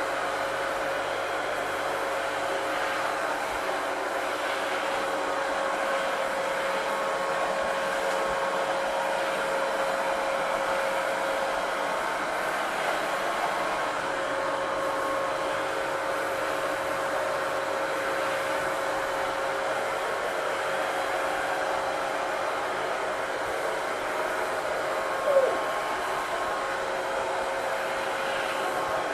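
Vacuum cleaner running steadily, a constant motor whine over an even rush of air. Near the end there is one short, falling squeak.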